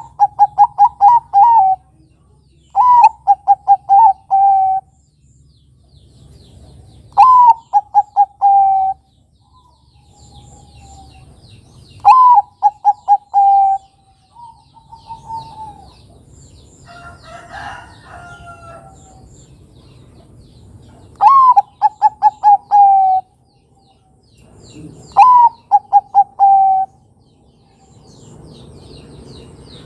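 Zebra dove (perkutut) singing in the Bangkok style: six cooing phrases a few seconds apart, each a high opening note followed by a quick run of falling coos. Between phrases, about midway, a different fainter bird calls, and small birds chirp faintly in the background.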